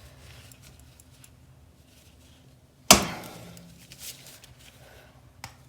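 One sharp, loud metallic clack about three seconds in, fading with a short ring, as a tool works loose a tight part of a SATA paint spray gun being taken apart for cleaning. A faint low hum runs under it.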